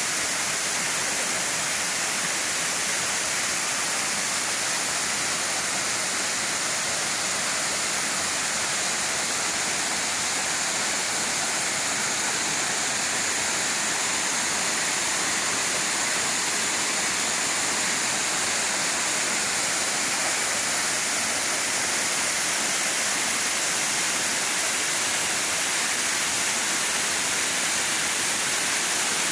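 Steady rushing of falling water, like a forest waterfall or cascade, an even hiss that holds at the same level throughout.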